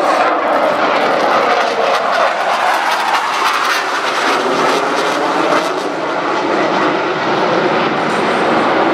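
Dassault Rafale C fighter's twin Snecma M88 turbofans running loud during a low display pass, a rough jet noise with a crackle through it that dips slightly past the middle.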